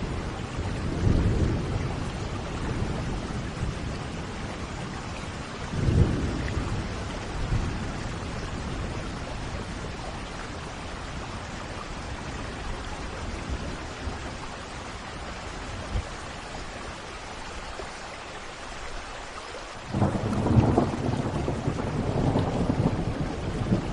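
Steady rain falling in a thunderstorm, with rolls of thunder: low rumbles early on and a loud thunderclap rumbling in near the end.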